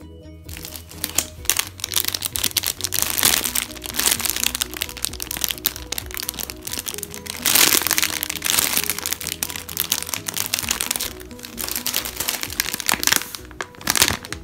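Dense crinkling and crackling of plastic as a slow-rising squishy toy is handled and squeezed, starting about half a second in and stopping shortly before the end, over background music.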